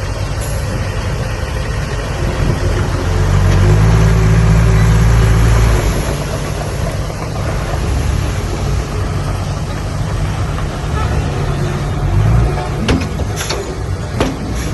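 Heavy diesel engines of earthmoving machinery running. The engine note swells louder for about three seconds, roughly three seconds in, as under load, and there are a few sharp metallic knocks near the end.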